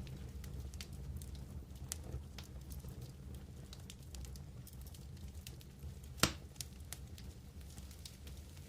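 Wood campfire crackling: scattered sharp snaps over a low steady rumble, with one loud pop a little past halfway.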